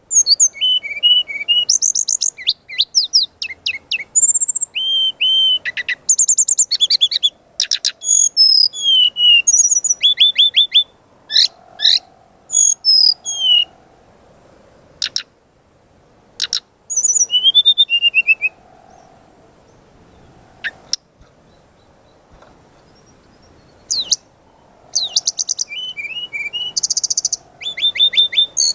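Brown-chested jungle flycatcher (sikatan rimba dada coklat) singing in rapid bursts of sharp, high whistled notes and trills. About halfway through it thins to a few scattered notes, then bursts out densely again near the end.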